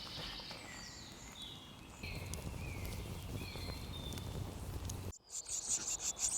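Wild birds singing in woodland, short whistled notes, some of them swooping down in pitch, over a low rumble. About five seconds in the sound cuts away to a fast, raspy, rhythmic high chattering.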